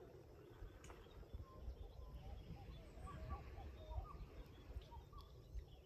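Faint bird calls: a run of short, quick twittering chirps from about two seconds in, over a low rumble.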